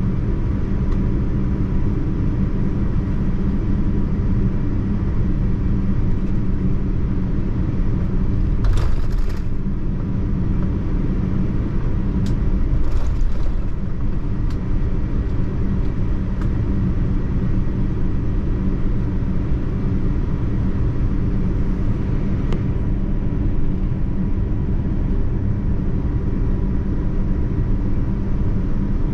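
Steady cabin noise of a Boeing 787-9 airliner, a continuous low rumble with a faint steady hum. Two brief hissing sounds cut in, about nine and thirteen seconds in.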